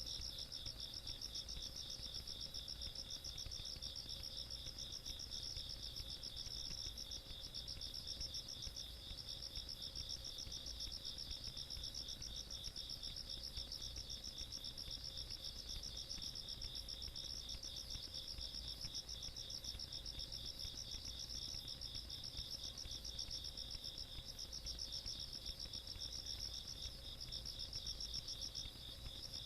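Night insect chorus of crickets and similar singing insects: two rapid, high-pitched pulsing trills at slightly different pitches, going on without a break.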